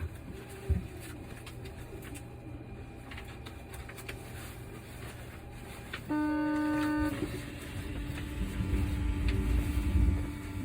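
Osaka Metro New Tram, a rubber-tyred automated people mover, standing at the platform: a one-second horn-like signal tone sounds about six seconds in, then a low rumble builds as the train begins to move off.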